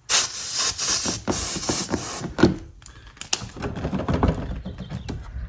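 Compressed-air blow gun blasting in about four short, loud bursts over the first two seconds, blowing out gravel and dirt packed behind a car's fender liner. After that come softer scattered clicks and rattling.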